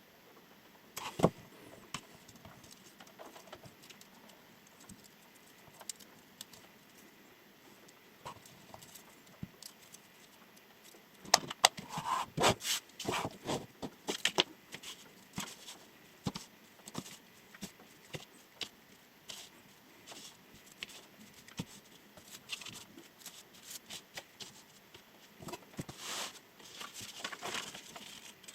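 A chef knife being handled and used for cutting tests: scattered sharp clicks and taps with short scrapes, busiest about eleven seconds in and again near the end.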